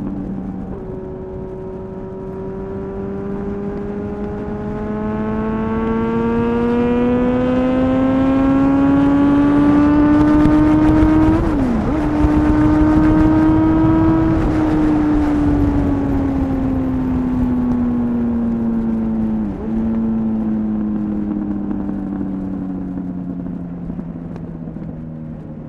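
Honda CBR929RR Fireblade's inline-four running through an Erion full racing exhaust, ridden at moderate revs while a new clutch is broken in. The engine note climbs steadily, breaks briefly for a gear change about 12 seconds in, keeps rising for a couple of seconds, then falls away steadily as the bike slows, with a short dip near 20 seconds.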